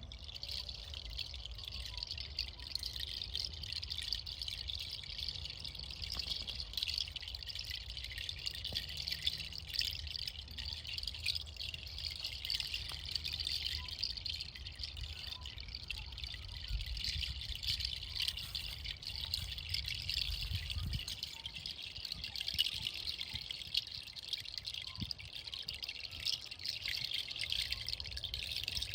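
Kenari seed pod chime (a cascade of dried kenari nut shells) rattling without pause: a dense, fine clatter of light clicks, like rain or trickling water, over a low rumble.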